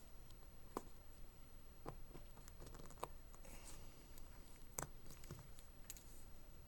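Faint, scattered clicks and a brief scrape of small repair tools working on an iPhone 5s as its screen is pried off, the sharpest click about five seconds in.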